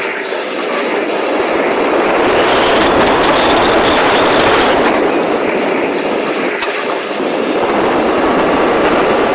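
Rlaarlo XBS RC car driving, a steady rush of motor, drivetrain and tyre noise over rough ground that swells and eases as it goes.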